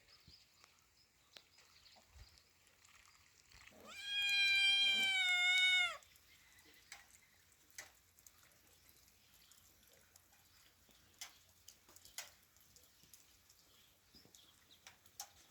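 A domestic cat meowing once, a long drawn-out call lasting about two seconds, starting about four seconds in. Faint scattered ticks follow.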